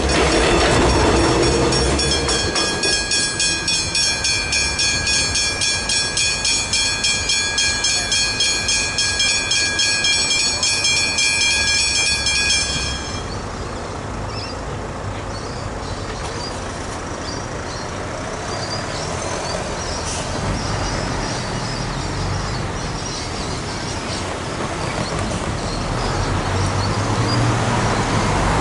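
A train rumbles over the crossing at first. Then the level crossing's warning bells ring in a fast, even pulse of about four strokes a second and cut off abruptly about halfway through as the crossing deactivates. Road traffic noise follows.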